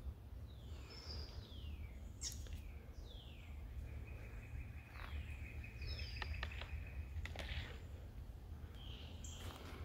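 Birds calling in woodland: a handful of short calls that each slide downward in pitch, and a steady high trill from about four seconds in to past seven seconds, over a faint low rumble.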